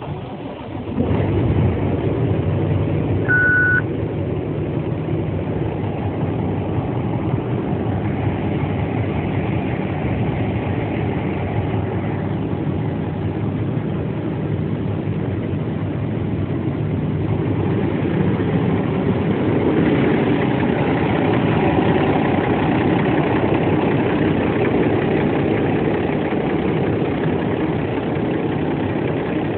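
Cummins ISX straight-six diesel of a 2011 International ProStar truck idling steadily, louder from about a second in. A short beep sounds about three seconds in.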